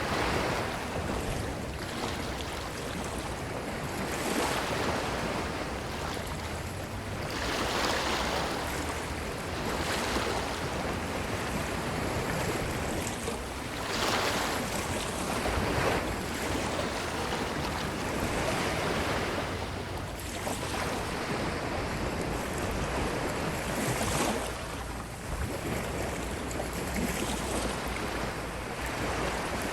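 Ocean waves breaking and washing up a beach: a steady surf hiss that swells into a louder rush every few seconds as each wave comes in, then eases off.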